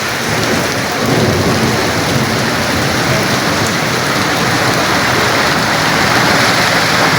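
Heavy rain falling steadily, with a low rumble joining about a second in and growing slightly louder toward the end.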